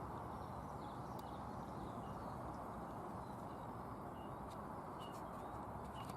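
Steady low wind rumble, with faint short bird chirps now and then.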